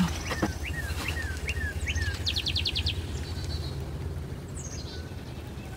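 Songbirds calling: a series of short down-slurred chirps, then a quick trill of about seven notes, and a high falling call about four and a half seconds in, over a steady low rumble.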